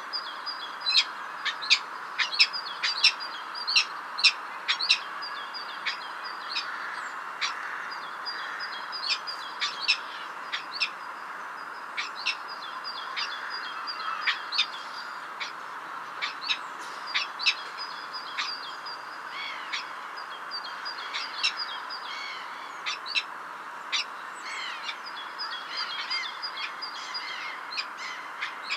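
Small birds chirping in many short, sharp notes, thickest in the first few seconds, over a steady background hiss.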